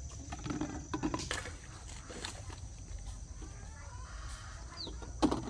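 Faint animal calls over scattered knocks and rustling, with one sharp knock near the end.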